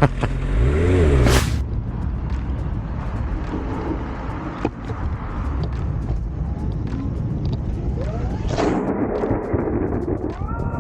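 Motorcycle on the road, its engine running under steady wind noise on the microphone. There is a loud surge within the first second and another near the end, and just before the end a steady chord of tones sets in.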